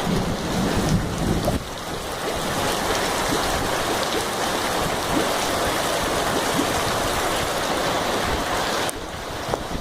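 Heavy rain mixed with hail pelting down: a dense, steady hiss with scattered sharp ticks of hailstones striking. A low rumble of wind on the microphone runs through the first second and a half, and the downpour dips briefly near the end.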